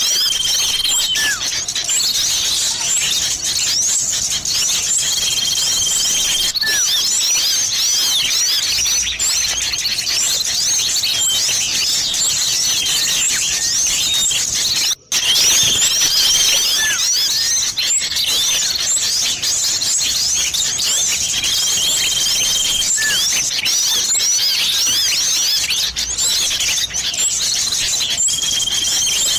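Bird-lure recording of a dense chorus of small songbirds chirping busily and non-stop, mixed with calls of common iora and sirtu birds. A long, level, high whistle comes back every six seconds or so, and the sound cuts out for a moment about halfway, like a splice in a looped track.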